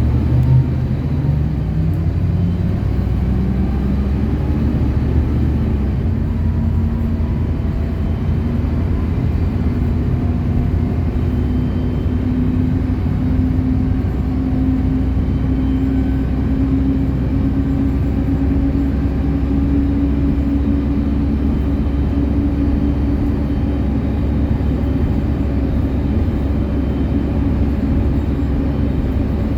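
City bus running under way: a steady low rumble with a drivetrain whine that rises slowly for about twenty seconds as the bus gathers speed, then holds steady.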